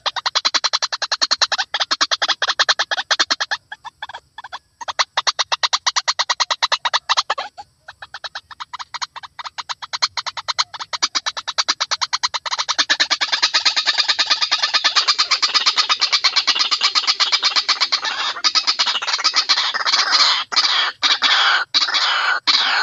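White-breasted waterhen (ruak-ruak) calling: fast runs of rapidly repeated notes that break off and restart several times, then run on thicker and without a pause from about halfway through.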